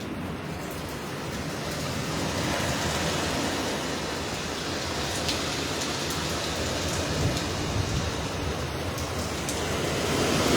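Hurricane wind and driving rain: a steady rushing noise that grows louder near the end.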